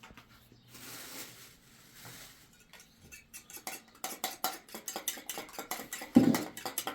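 Spoon and utensils clinking and scraping in a metal bowl while dough ingredients are mixed. The first half is faint; from about halfway a fast run of clicks grows louder, with one loud knock near the end.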